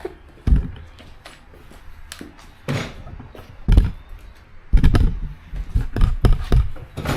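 Irregular knocks and thumps of tools and parts being handled and set down, about eight in all, most of them in the second half.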